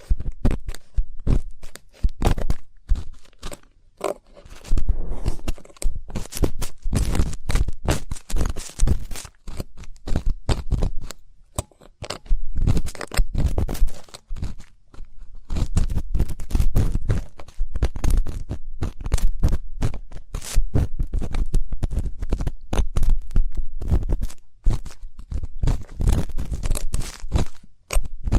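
Ear pick (mimikaki) scraping and rubbing in an ear for ASMR: a dense, continuous run of close, crackly scrapes with a few brief lulls.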